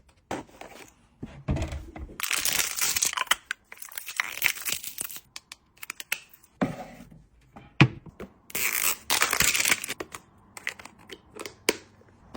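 Packaging being unwrapped by hand: wrapping crinkling and tearing in several bursts, with scattered clicks and light knocks in between.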